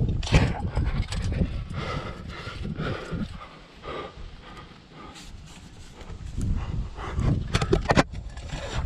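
A climber moving up a rock chimney: clothing and gear scraping and rubbing against the rock, with several sharp clinks of metal climbing hardware near the end.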